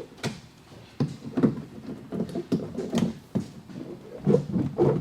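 Irregular knocks, taps and handling noises in quick succession.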